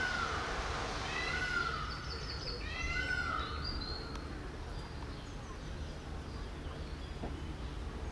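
Birds calling over a steady low rumble: several drawn-out, arching calls in the first few seconds, with a quick run of short high notes among them, then fading.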